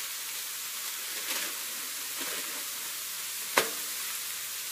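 Raw beef burger patties sizzling on a hot Blackstone flat-top griddle: a steady hiss of frying fat. There is one sharp click about three and a half seconds in.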